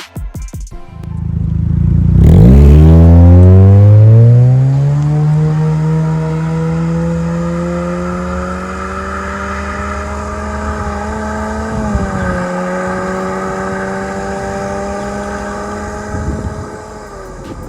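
Honda Fit 1.5S's four-cylinder engine through an MS-R valved cat-back exhaust, accelerating hard: it comes in loud about two seconds in, climbs in pitch over a few seconds, then holds steady at high revs with a brief dip near the middle, easing off at the end.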